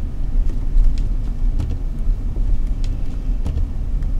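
Car interior rumble while driving slowly through snow: a steady low engine and road drone, with a few faint scattered ticks.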